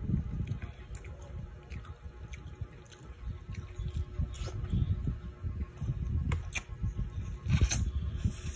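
Close-miked chewing and wet mouth sounds of someone eating fish soup with rice, an uneven run of soft smacks with a few sharper clicks.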